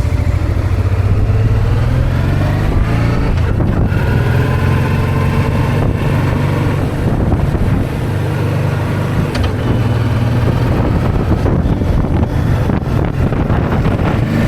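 Honda Deauville 650's V-twin engine running on the move, its note rising as it accelerates a few seconds in, easing off around the middle, then picking up again.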